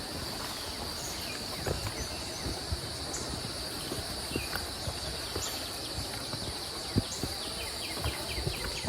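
Forest insects keeping up a steady, high-pitched drone, with scattered footsteps and knocks.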